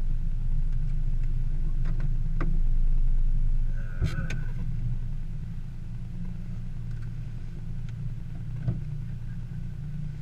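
Mazda3's engine running at low speed inside the cabin, a steady low rumble that drops off about halfway through as the car comes to rest and idles. A few light clicks and a small knock about four seconds in.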